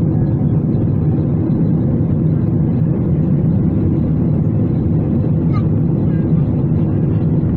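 Steady airliner cabin noise inside a Boeing 777-300ER in flight: a constant low rumble of the engines and the airflow past the fuselage.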